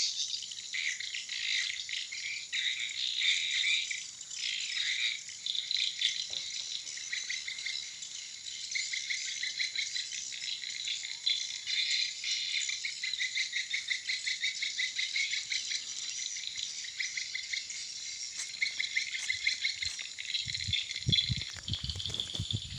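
Swiftlets twittering and chattering in a dense, continuous high chorus, with a fast pulsed chatter through the middle. A few low thumps come near the end.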